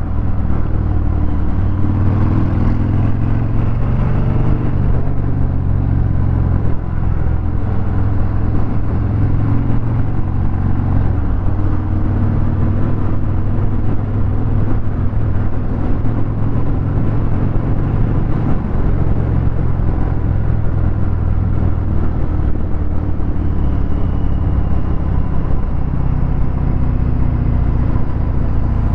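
Harley-Davidson Fat Bob 114's Milwaukee-Eight 114 V-twin running through a Vance & Hines Hi-Output 2-into-1 exhaust, a steady deep rumble at low road speed with small rises and falls in pitch.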